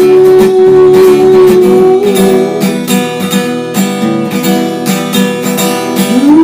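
Music: an instrumental passage of strummed acoustic guitar, with a steady held note above it.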